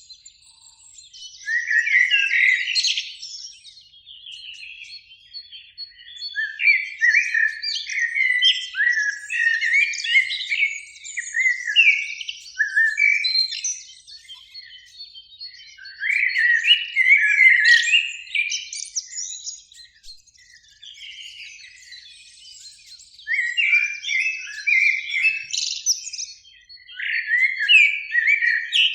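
Eurasian blackbirds singing: repeated song phrases a few seconds long, separated by short pauses.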